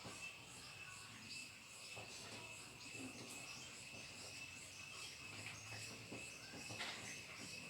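Crickets chirping steadily and faintly: a continuous high trill with a pulsing beat higher up. A few light clicks and taps sound over it, the clearest near the end.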